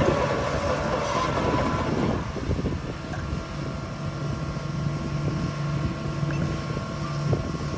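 Shantui bulldozer's diesel engine running under load while pushing soil. It is louder for about the first two seconds, then eases to a steadier, lower note.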